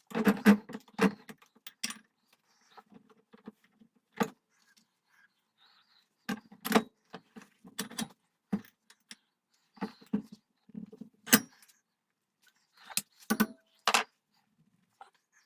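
Irregular metallic clinks and knocks of metal tools and brass parts being handled and set down on a workbench, some with a short ring.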